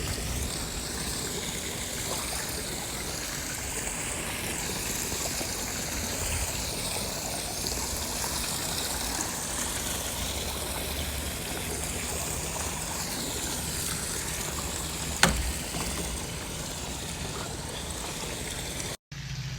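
Steady running and trickling water, with one sharp click about fifteen seconds in and a brief cut-out near the end.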